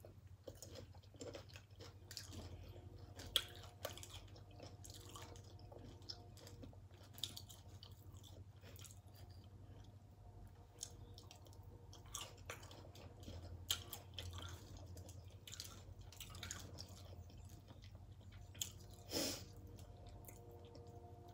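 Close-miked chewing of loaded tortilla-chip nachos, with scattered crunches and small clicks, the loudest about three seconds before the end, over a faint steady low hum.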